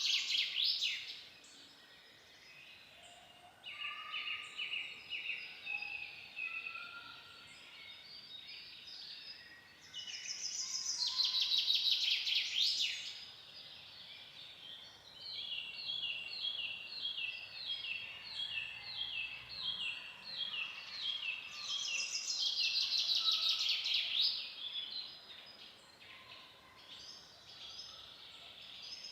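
Wild songbirds singing. One bird gives a loud, rapid, high trilling phrase about every eleven or twelve seconds, three times. Between its phrases another bird repeats a shorter note about twice a second.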